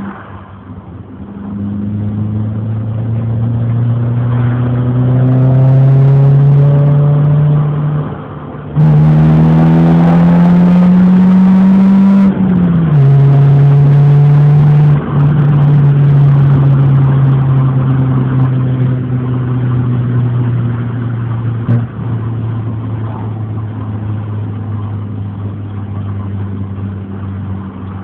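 Renault Clio engine and exhaust accelerating under load: the pitch climbs, dips briefly about eight and a half seconds in, climbs again, then drops at a gear change around twelve seconds in and settles into a steady cruise that slowly eases off.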